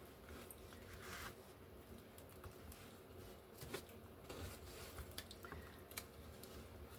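Faint, scattered small clicks, with a short rustle about a second in: paper and craft tools being handled on a tabletop.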